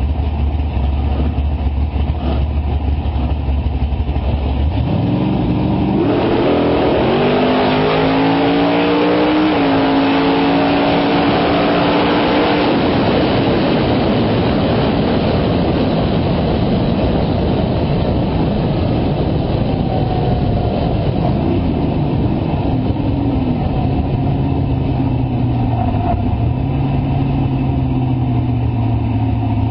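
Race car engine running low and steady, then revving up with a climbing pitch from about five seconds in, and carrying on at a steady lower pitch for the rest.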